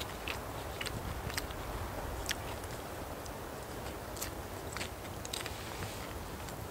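A person biting and chewing food close to the microphone, with irregular crisp clicks.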